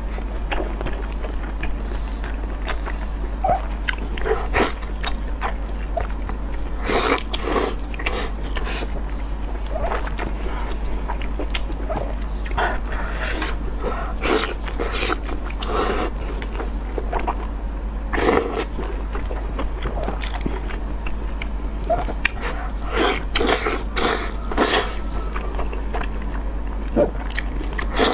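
Close-up eating sounds of chewy, sauce-coated rolled intestine being bitten and chewed: irregular wet clicks and smacks of the mouth at uneven intervals, over a steady low hum.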